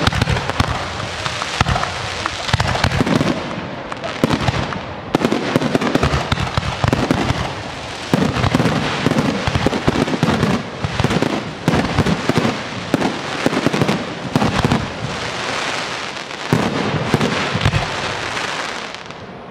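Fireworks display in a dense barrage: many aerial shells bursting in quick succession, mixed with crackling stars, in a near-continuous volley that eases off slightly near the end.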